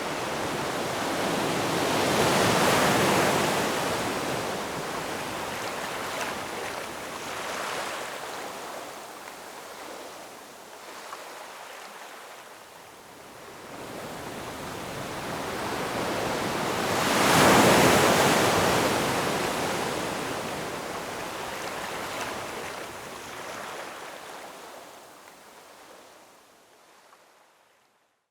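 Ocean waves breaking on a shore: two large waves about fifteen seconds apart, each swelling into a loud rush and then washing back. The surf fades almost to silence at the very end.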